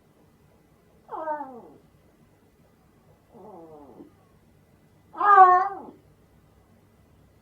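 Domestic cat meowing three times, each meow falling in pitch; the middle one is faint and the last is the loudest.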